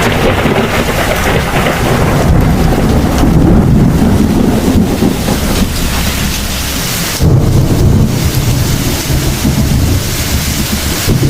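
Heavy rain with rolling thunder rumbling throughout; a fresh, louder rumble breaks in suddenly about seven seconds in.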